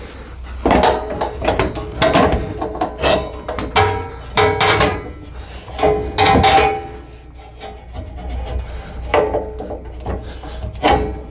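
Metal brush guard parts clanking and scraping as they are shifted into place on a lawn tractor's front end: a run of irregular knocks and rubs, several leaving a brief ringing tone.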